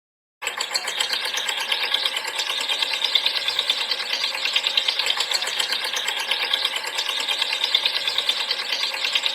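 A small geared mechanism rattling steadily with fast, even clicking, starting after a brief silence.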